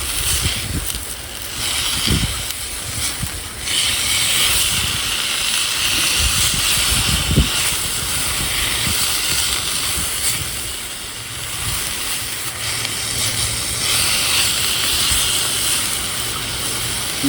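Blanched lamb's quarters sizzling in oil in a cast iron pan, a steady hiss that comes mostly from the water still on the greens. A couple of brief low knocks break in.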